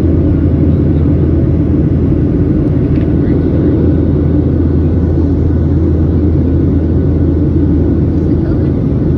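Steady cabin noise inside a Boeing 737-700 airliner: the constant low drone of its CFM56 jet engines and the rush of airflow, holding an even level throughout.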